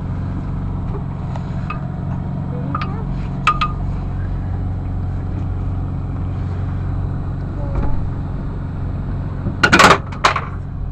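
Boat engine running steadily at an even, low hum, with a couple of sharp knocks a few seconds in and two loud knocks close together near the end.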